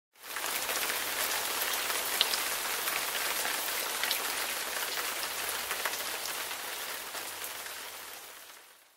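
Steady rain falling, with a few distinct drop ticks standing out. It fades in just after the start and fades out over the last second or so.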